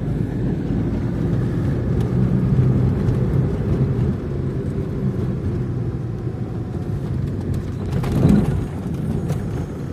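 Car driving on a road: a steady low rumble of engine and tyre noise inside the cabin, with a brief louder swell about eight seconds in.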